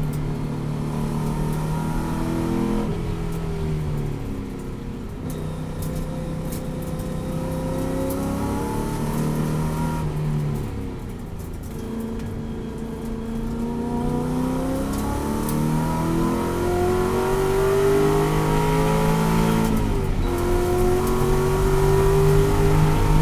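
Ford Boss 302 race car's 5.0-litre V8 at full throttle around a track. The revs climb, fall away three times as the driver lifts off and shifts, and climb again each time.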